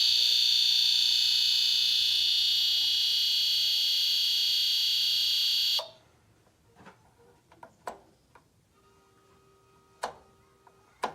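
A De'Longhi HMP1500 mica panel heater gives off a loud, steady, high-pitched tone that cuts off suddenly about six seconds in. The owner cannot say what is causing it. A few light clicks follow.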